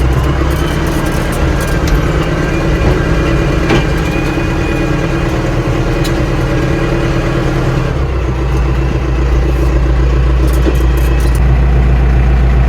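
AGCO 6670 loader tractor's diesel engine running steadily under the operator, its low drone rougher for the first several seconds and then settling even, with a couple of light knocks along the way.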